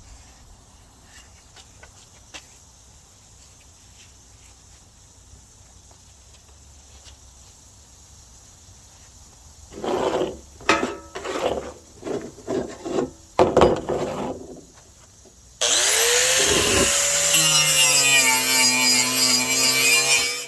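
Quiet handling with small clicks, then a run of short scraping bursts; about fifteen seconds in an angle grinder starts, its whine rising as it spins up, then runs steadily and loudly, grinding flash rust off a steel battery tray.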